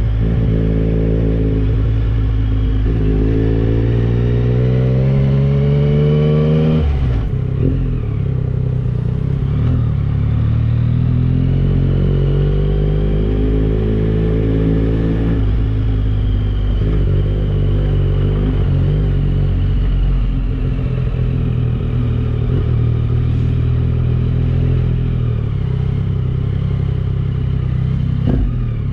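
Yamaha Tracer 9 GT's 890 cc inline three-cylinder engine through a Dominator aftermarket exhaust, pulling under way. The revs climb steadily, drop sharply at a gear change about seven seconds in, climb again in the middle, then settle to a steadier run near the end.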